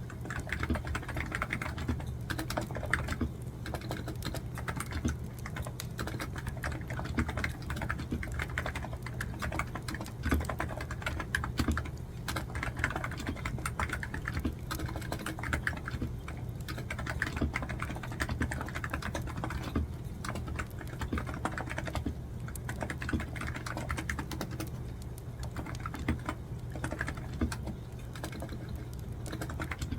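Fast, continuous typing on a computer keyboard, many keystrokes a second, over a steady low hum.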